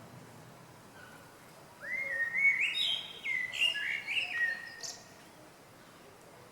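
A small songbird singing one phrase of clear whistled notes, starting about two seconds in with a quick rising note and then stepping up and down in pitch for about three seconds.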